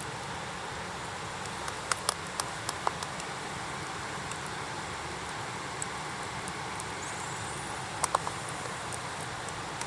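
Wood fire crackling, with sharp pops in a cluster about two to three seconds in and again about eight seconds in, over a steady background hiss.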